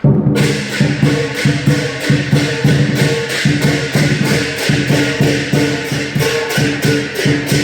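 Lion dance percussion: a big Chinese drum with clashing cymbals and gong, played in a steady, fast, loud beat of about three to four strikes a second.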